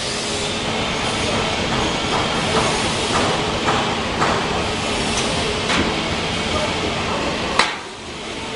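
Steady hiss and hum of industrial machinery, with a faint steady tone and a scattered series of sharp clicks and knocks. The loudest knock comes near the end, and the noise dips briefly after it.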